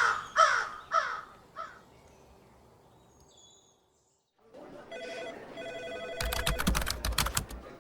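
Crow cawing three times, like laughter, then fading out. After a moment of silence, office sound effects come in: a telephone ringing, joined at about six seconds by fast computer-keyboard typing.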